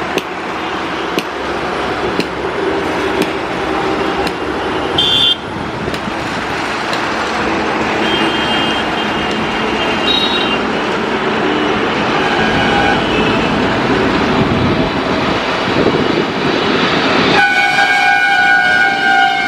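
Steady, slowly swelling roar of traffic or engine noise with several short horn toots, then a loud, sustained multi-tone horn that starts abruptly near the end.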